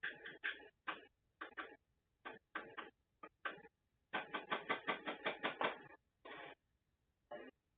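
Knocks and clicks of tools and metal parts as a furnace is taken apart: scattered single knocks, then a quick run of about ten a second around the middle, and a couple more near the end.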